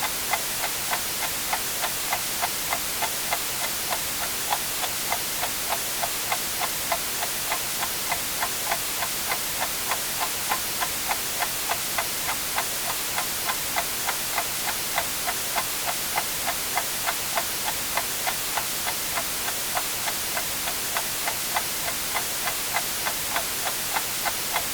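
Clock ticking steadily, a little over two ticks a second, over a constant white-noise hiss.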